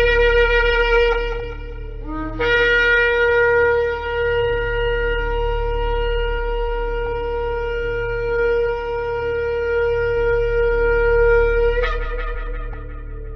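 Shofar (ram's horn) blasts: a blast that stops about two seconds in, a brief lower note, then one long held blast of about nine seconds that breaks sharply upward and cuts off near the end. A low steady drone sounds underneath.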